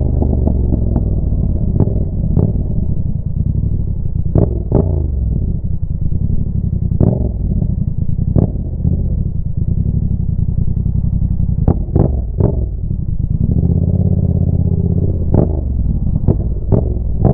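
Yamaha MT-07's parallel-twin engine running through a Roadsitalia exhaust with the dB killer removed. Its revs rise and fall repeatedly, and it gives sharp exhaust pops and bangs, a dozen or so, mostly as the revs drop back.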